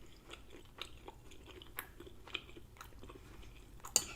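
A person chewing a mouthful of soft, saucy lasagna roll, with faint wet mouth smacks and clicks. A sharper click comes near the end.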